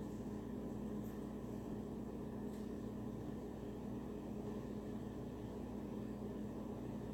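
A steady mechanical hum with a faint hiss, unchanging throughout, with two faint ticks about a second and two and a half seconds in.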